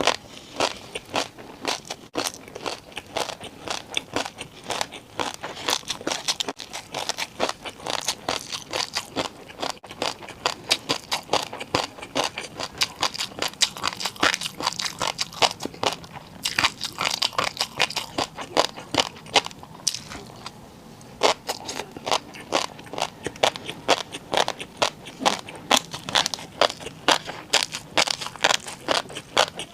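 Close-up chewing and biting of crunchy food in an eating-show recording: a dense, rapid run of crunches and crackles, with a brief lull about twenty seconds in.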